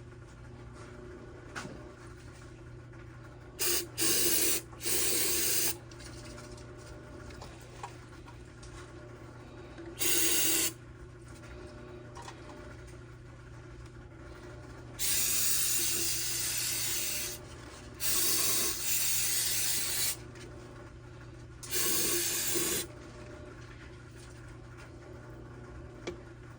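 Aerosol carburetor cleaner sprayed in six short hissing bursts, each half a second to about two seconds long, while the carburetor is cleaned. The longest burst comes about fifteen seconds in.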